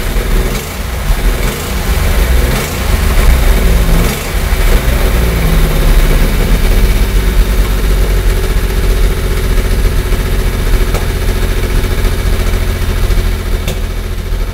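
1975 Porsche 911 Carrera's air-cooled flat-six engine running. The engine speed rises and falls a few times in the first five seconds or so, then holds steady. The engine now runs properly, its repaired K-Jetronic fuel injection delivering fuel again.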